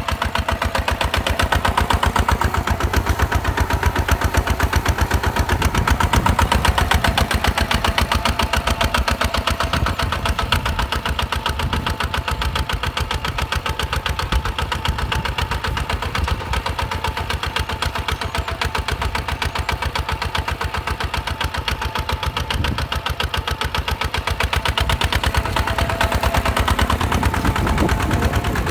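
Single-cylinder 155 DI diesel tractor engine running steadily, its firing beating out a rapid, even pulse.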